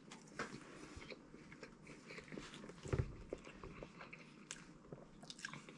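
A person chewing a mouthful of a Wendy's breaded ghost pepper chicken sandwich: faint, irregular crunching and wet mouth clicks, with one louder thump about three seconds in.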